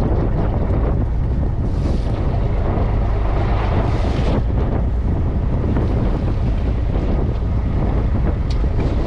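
Wind buffeting the microphone aboard a small fishing boat at sea, over a steady low rumble and rushing water. Two louder hissing surges come about two and four seconds in.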